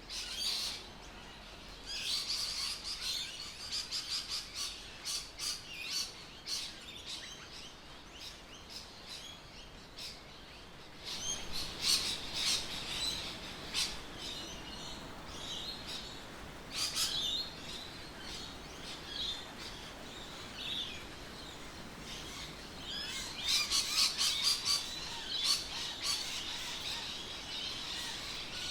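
Birds chirping and calling: many short, high calls that come in busy spells, with a few quieter gaps.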